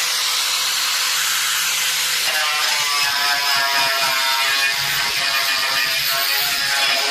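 A small electric power tool's motor running steadily with a buzzing whine, its pitch shifting about two seconds in.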